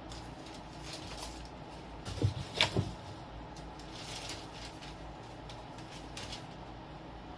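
Small handling sounds on a workbench: faint scattered rustling and scraping, with three quick light knocks about two and a half seconds in, over a steady low room hum.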